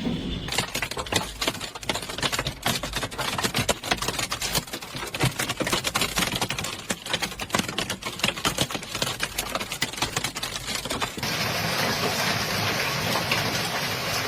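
Hailstones pelting hard surfaces in a dense, irregular clatter of rapid impacts. About eleven seconds in it changes abruptly to a steady hiss of heavy hail or rain.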